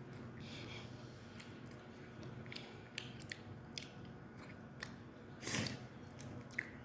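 A person chewing and biting chicken close to the microphone: scattered short wet mouth clicks, with one louder noisy burst about five and a half seconds in.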